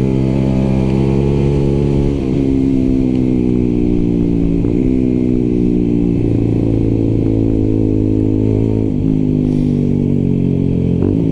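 125cc motorcycle engine running under way as the bike is ridden, the engine note steady and dipping briefly about 2, 4.5, 9 and 11 seconds in.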